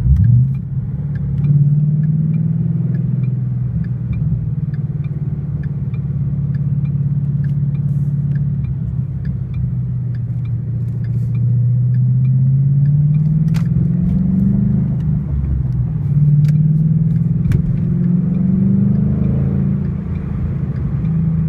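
A 2012 Mustang GT's 5.0 V8 running through an MBRP Race Series cat-back exhaust, heard from inside the cabin while driving. Its deep exhaust note climbs sharply right at the start, then climbs in pitch twice more with drops between as the car pulls through the gears of its six-speed manual.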